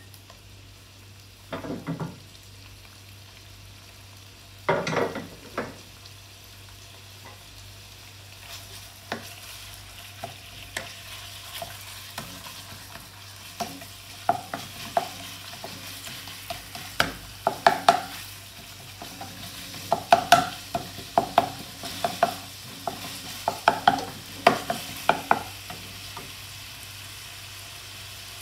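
Shredded pork ham sizzling in oil in a pan on a gas burner, with a steady hiss. There are two louder knocks within the first few seconds, then a wooden spatula scrapes and clacks against the pan in quick, repeated strokes through the second half.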